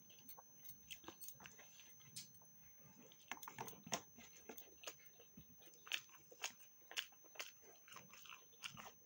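Faint, irregular chewing of a mouthful of rice and dal eaten by hand: soft mouth clicks and smacks, more frequent in the second half.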